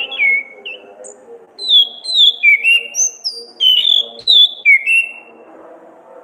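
Orange-headed thrush (anis kembang) singing: a short note at the start, then from about a second and a half in a quick run of clear whistled phrases, most sliding down in pitch, ending about five seconds in. A faint steady hum lies underneath.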